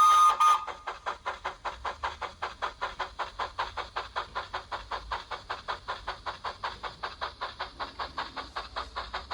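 Digital steam-locomotive sound of a Baldwin 4-6-0 from a Zimo DCC sound decoder, played through a small model-railway speaker. A multi-tone whistle cuts off about half a second in, then steady, even exhaust chuffs follow at about five a second.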